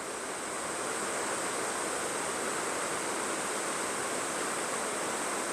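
Waterfall rushing: a steady, even rush of falling water with no breaks.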